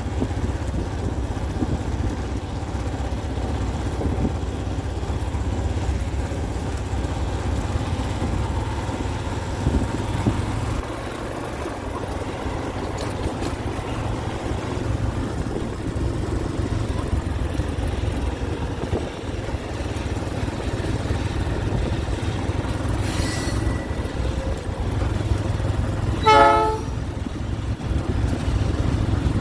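GE C36-7 diesel locomotive running with a steady low rumble, and one short horn blast near the end.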